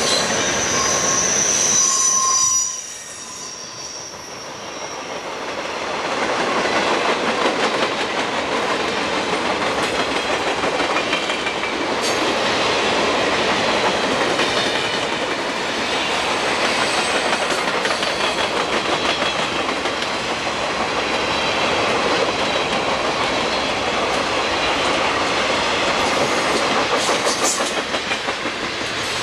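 Conrail freight cars (gondolas and hoppers) rolling past close by: steady rumble and clatter of steel wheels on the rails. A high wheel squeal sounds in the first couple of seconds. The sound drops sharply about three seconds in, then builds back to a steady run of rolling cars.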